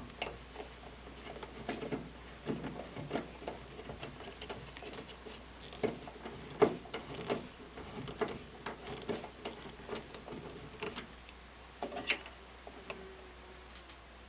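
Irregular clicks, taps and knocks of screws and hand tools being handled against the metal of a washing machine while it is screwed back together, with two louder knocks, one about six seconds in and one near the end.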